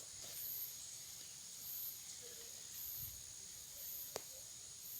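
Faint insects calling in a field: a steady high buzz with a very high pulse repeating about once a second. One sharp click sounds about four seconds in.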